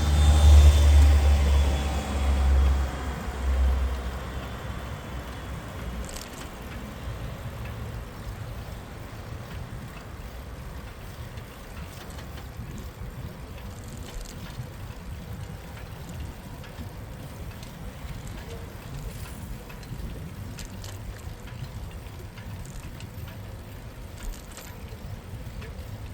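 City street sound heard from a moving bicycle: a motor vehicle passes close by with a loud low rumble for the first four seconds, then steady, quieter traffic and tyre noise with a few faint clicks.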